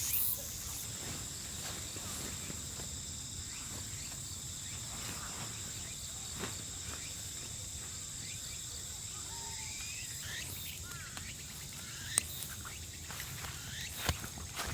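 Crickets and other insects singing in a steady, high, continuous chorus. Short chirps come in about ten seconds in, and two sharp clicks sound near the end.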